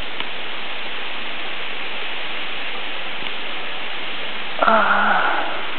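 Steady rush of falling water from a mostly frozen waterfall. A brief voice-like sound comes about five seconds in.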